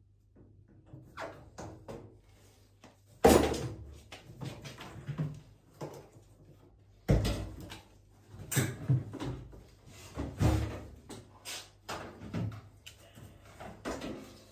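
A series of knocks and bangs, with two loud bangs about three and seven seconds in and lighter knocking and clatter between.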